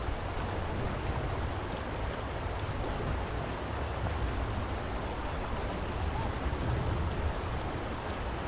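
Steady rush of the River Dove's shallow water flowing around the stepping stones, with a low wind rumble on the microphone.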